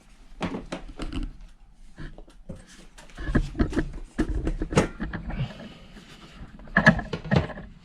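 Handling noise from a Klipsch PRO-180RPW in-ceiling speaker being fitted to its mounting bracket: a run of short clicks and knocks, thickest a few seconds in and again near the end.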